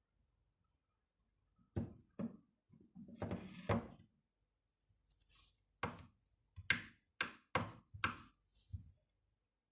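A series of sharp knocks and taps, about a dozen spread irregularly over several seconds, with a brief hiss in the middle.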